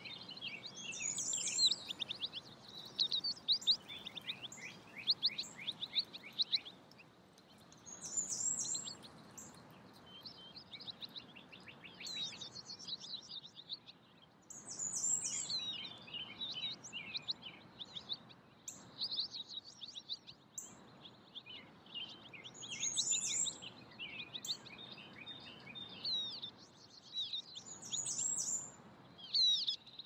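Several songbirds chirping and trilling in overlapping bouts of quick, high notes, over a faint steady background hiss.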